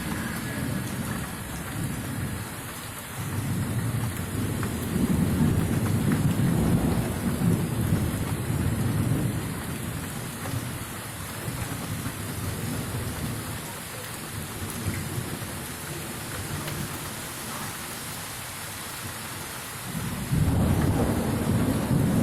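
Steady rain with rolling thunder. A long, deep rumble swells about three seconds in and fades slowly over several seconds, and a second peal breaks near the end.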